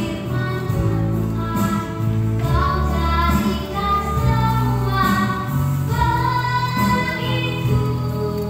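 A child singing a melody with held notes over instrumental backing music.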